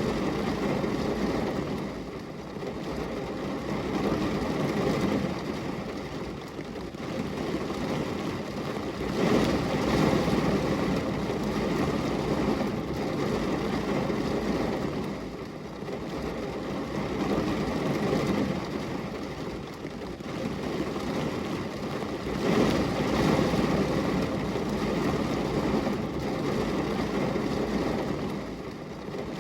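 Steady rain hitting a glass window: a dense hiss with no distinct drops standing out, swelling and easing every few seconds.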